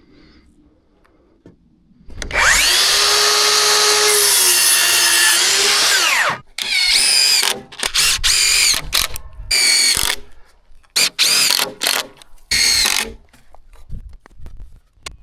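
Small electric power tool motor running: one long run of about four seconds, then a series of short bursts with the pitch rising at the start and falling at the end of each.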